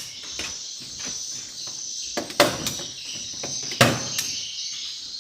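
Swiftlet lure calls chirping continuously from the call speakers in a swiftlet house. Two loud, sharp knocks with a short echo come about two and a half and four seconds in, with lighter ticks between.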